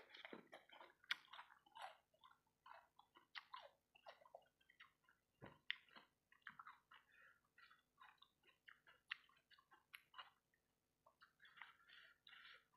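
Faint, close-up wet chewing and lip smacking: irregular mouth clicks, several a second, from eating fried rice balls coated in sticky peanut and sweet soy sauce, with a short pause near the end.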